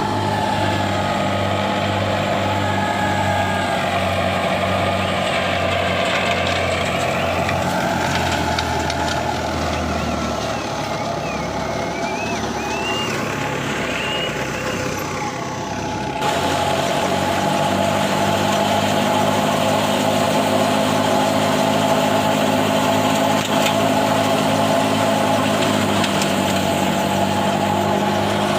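Tractor engine running steadily, driving a wheat thresher, a continuous mechanical drone. The sound changes abruptly a little past halfway and then carries on steady.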